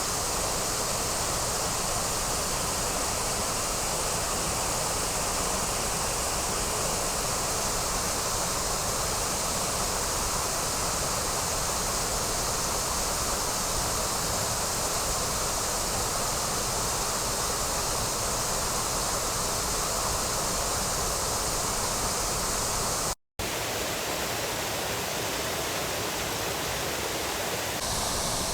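Steady rushing of a waterfall on the Trevillet River, water pouring and splashing. The sound cuts out completely for a moment about twenty-three seconds in, then goes on with a slightly different tone.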